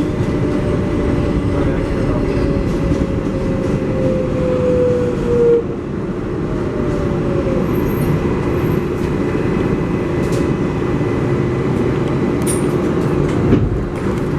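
R188 subway car on the 7 line slowing into a station, its traction-motor whine falling steadily in pitch and dying out about five and a half seconds in as the train stops. The stationary car's steady noise follows, with a few sharp clicks near the end.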